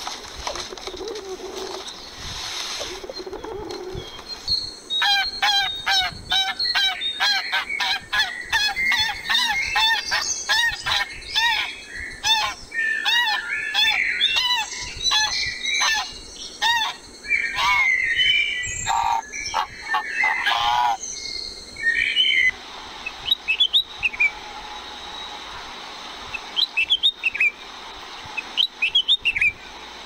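A run of bird calls. It opens with a few seconds of pigeons cooing, then about 18 seconds of geese honking in quick, repeated calls. In the last several seconds come short, scattered chirps from a small songbird.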